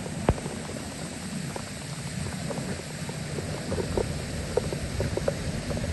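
Rushing floodwater: a steady low rumble with many short splashes and gurgles, and one sharp knock just after the start.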